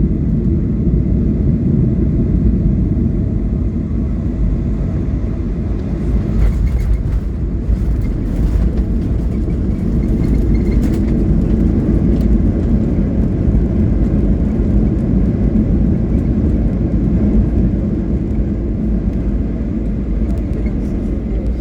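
Steady low rumble of an airliner's cabin as the plane rolls on the ground after landing, engines and wheels running, with a few brief rattles around the middle.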